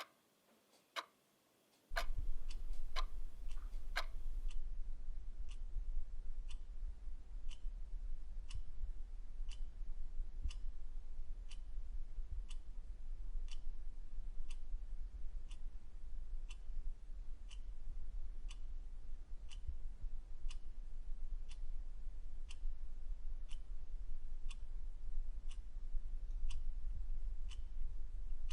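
A clock ticking with sharp, evenly spaced ticks, about one a second. A steady low hum comes in about two seconds in. A couple of seconds later the ticks turn softer and slightly quicker.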